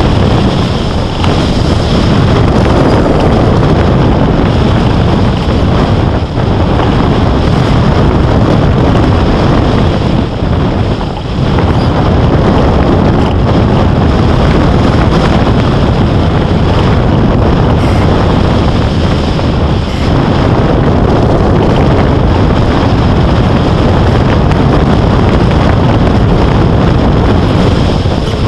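Loud, steady wind rushing and buffeting over the microphone during hang-glider flight, easing briefly twice.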